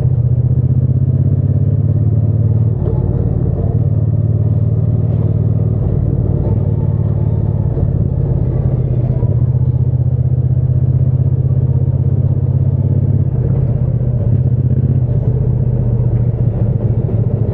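Triumph Bonneville T120 parallel-twin engine and exhaust running steadily on the move, the engine note shifting a few times: about three seconds in, about six seconds in and again near thirteen seconds.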